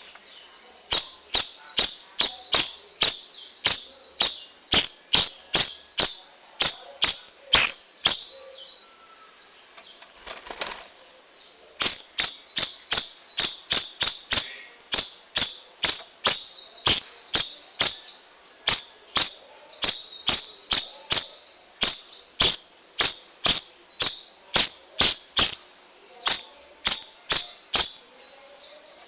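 Cucak rawis songbird singing in long runs of sharp, high, rapidly repeated notes, about three a second, with a pause of a few seconds midway.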